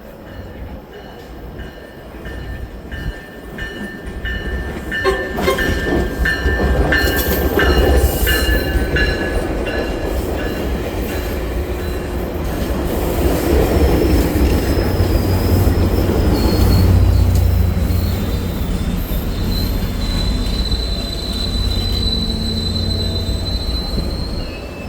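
Tri-Rail push-pull commuter train pulling into the station cab car first, growing loud about five seconds in with wheels clicking over the rail joints and a heavy low rumble. High-pitched squealing from the wheels and brakes comes and goes as it slows, with a long thin squeal near the end.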